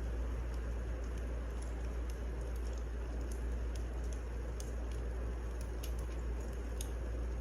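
Wood fire burning in a fireplace: irregular small crackles and pops over a steady low rumble and hiss.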